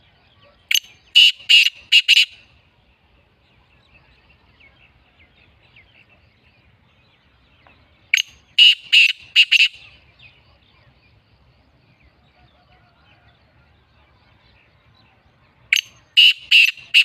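Black francolin calling: three call phrases about seven seconds apart, each a short note followed by three loud notes in quick succession.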